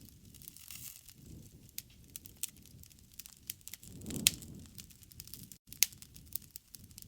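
Wood campfire crackling, with sharp pops scattered irregularly over a low rushing of flame, and a fuller low swell about four seconds in.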